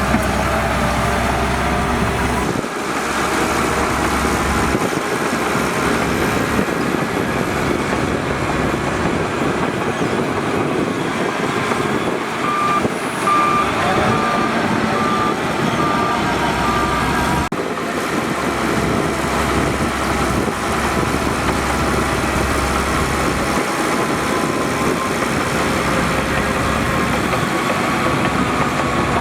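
Heavy diesel earthmoving machinery working steadily, a crawler bulldozer and dump trucks running under load. About halfway through, a reversing alarm sounds a short run of evenly spaced beeps, roughly one and a half a second.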